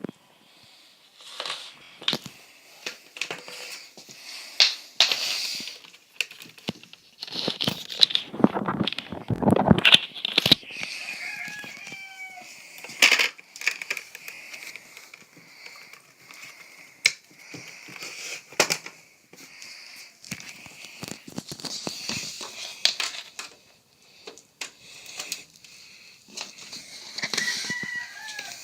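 Packaging being opened and handled by hand: crinkling, tearing and rustling with irregular clicks and knocks, and a short falling squeak about twelve seconds in and again near the end.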